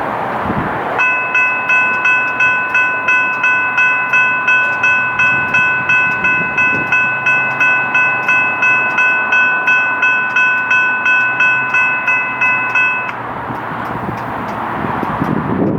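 Railroad crossing bell ringing rapidly, about two strokes a second, and stopping about thirteen seconds in, over the steady noise of a passing train.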